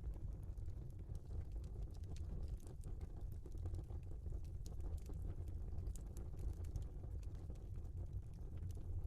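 Log fire burning in a fireplace: a steady low rumble with scattered small crackles and pops throughout.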